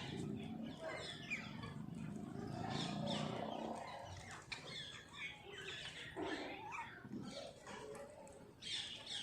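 A flock of parrots calling: many short, sharp, overlapping calls, with a louder cluster of calls near the end. A low rumble runs underneath during the first few seconds.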